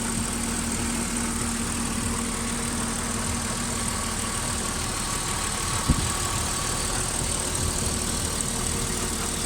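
Car engine idling steadily, heard up close at the engine, with no lifter tapping: the hydraulic lifters run quiet after an engine flush and a change to 5W-50 oil. There is one short knock about six seconds in.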